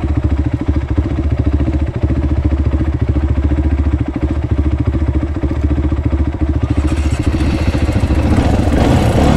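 Dirt bike engine idling steadily, its revs and loudness picking up somewhat near the end.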